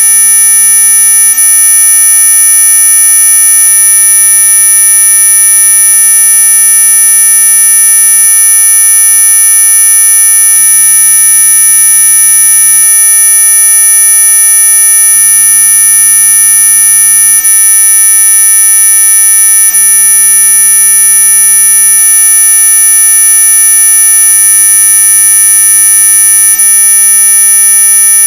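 Synthetic anti-mosquito 'ultrasonic' repellent tone track: a loud, steady, high-pitched electronic whine made of several pure tones sounding at once.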